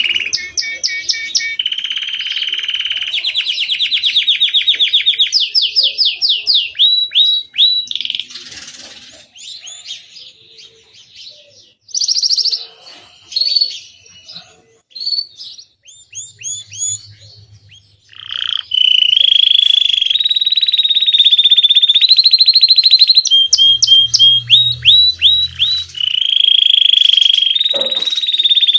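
Domestic Belgian canary singing: long trills of rapidly repeated notes, broken in the middle by a quieter spell of scattered short notes before loud trilling starts again.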